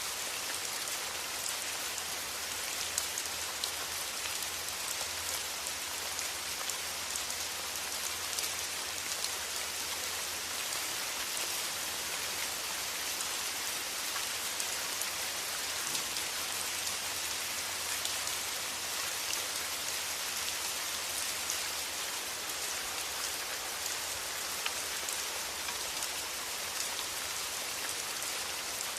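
Steady rain falling, a dense even hiss with many small droplet ticks.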